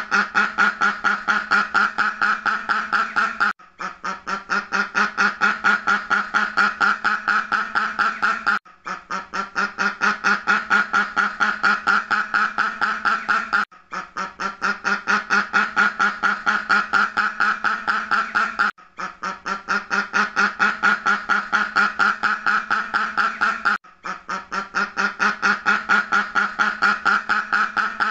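Duck quacking in a rapid, continuous series of calls. The quacking comes in stretches of about five seconds, each swelling at its start and separated by a brief gap, repeating evenly as a looped recording.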